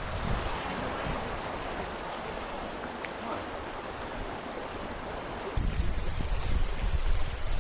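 River water rushing steadily over rocks. About five and a half seconds in, a louder low rumble of wind on the microphone sets in over it.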